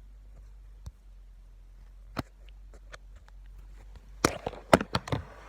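A few sharp clicks and taps, then a quick cluster of louder clicks and knocks about four seconds in.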